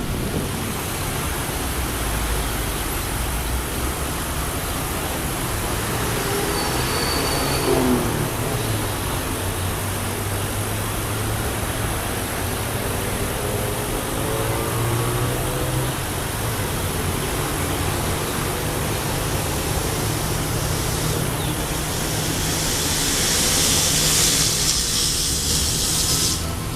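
A diesel train running past, heard as a steady engine drone with a continuous rumble and hiss. A brief high squeal comes about seven seconds in, and the hiss grows louder near the end.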